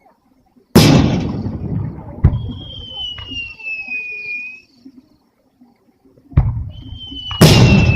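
Aerial fireworks bursting: a loud boom about a second in, trailing a long rumble, with a sharp crack soon after, then two more bursts near the end. After each group of bursts comes a thin whistle that falls slightly in pitch.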